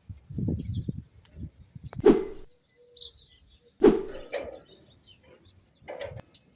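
Two loud, sharp knocks about two seconds apart, with a lighter one near the end, over a low rumble at the start and brief high bird chirps in between.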